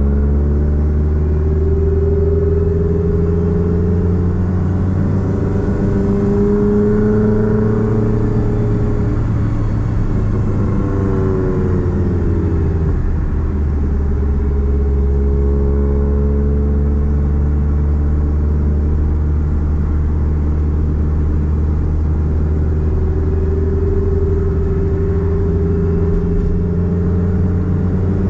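Straight-piped exhaust of a Nissan Platina's four-cylinder engine droning while driving, its pitch rising and falling a few times with throttle and gear changes, most noticeably around the middle.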